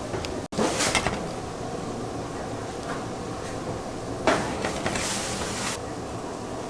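Kitchen work noise: a sharp knock followed by about a second and a half of rustling noise, over a steady background hiss. A brief clatter comes just after a split-second drop to silence about half a second in.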